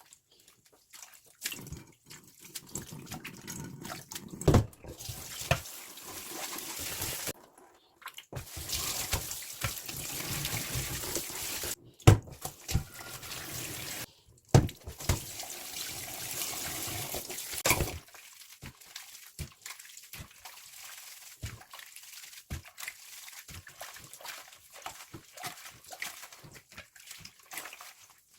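Kitchen tap running in several short stretches, water splashing while food or dishes are washed, with scattered clicks and knocks.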